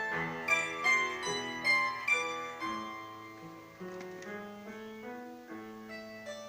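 Bandura being played solo: plucked strings ringing over a bass line, with several strong accented notes in the first two seconds or so, then a softer, quieter passage.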